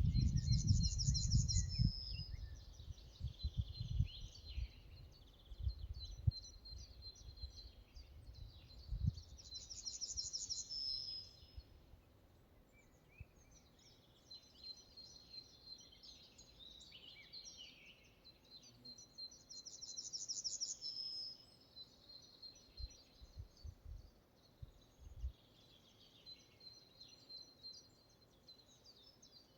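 Forest birdsong: one songbird repeats a short, fast-trilled high phrase about every ten seconds, with other birds chirping between. Low rumbling gusts, like wind on the microphone, come and go during the first dozen seconds and again briefly later.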